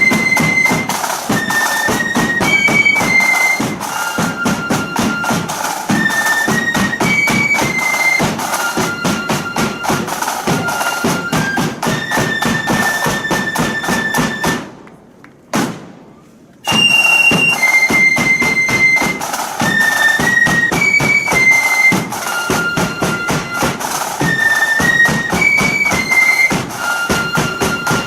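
Blood-and-thunder flute band playing a march: flutes carry the melody in unison over rapid snare-drum rolls and a heavy bass drum. About halfway through the music cuts off abruptly for a couple of seconds, then the same tune starts again.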